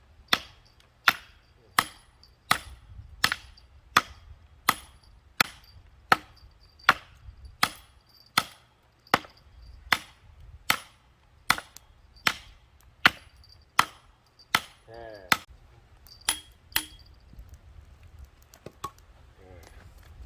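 A hatchet striking firewood in steady, repeated chopping blows, about one every three-quarters of a second, each with a faint metallic ring. The blows grow sparser and stop some seconds before the end.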